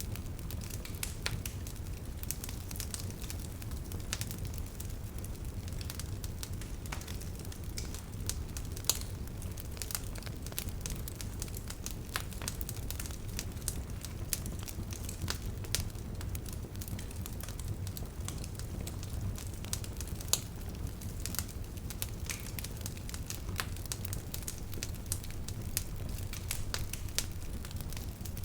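Wood bonfire crackling, with frequent irregular sharp pops and snaps over a steady low rumble of burning.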